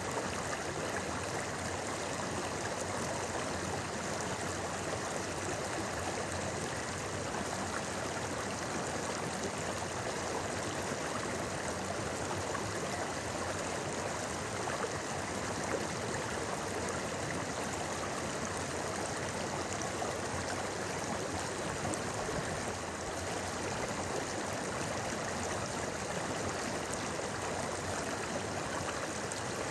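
A clear river burbling over stones in a steady rush, with no breaks.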